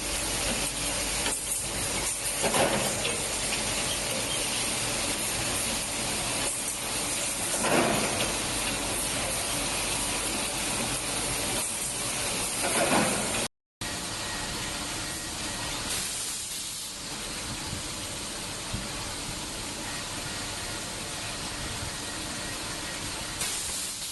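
Steady loud hiss of rushing air from glass tempering machinery, the kind of blast a tempering quench blower makes, swelling briefly louder three times. The sound cuts out for a moment about halfway and then resumes a little quieter.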